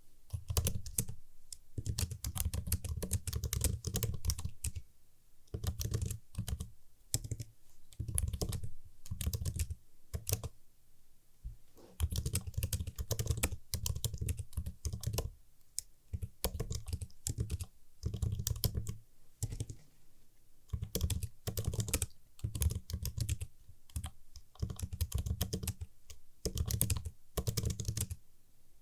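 Typing on a computer keyboard: crisp, quick runs of key clicks in bursts, broken by short pauses, the longest about ten seconds in.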